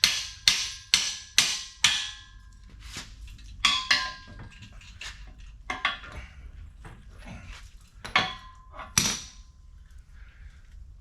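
Hammer blows knocking out a steel locking pin on a Strongway engine hoist. About five strikes come at roughly two a second, each leaving a metallic ring, then a few scattered knocks and taps.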